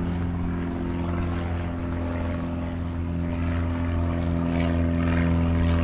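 Propeller aircraft engines running with a steady drone that grows slightly louder.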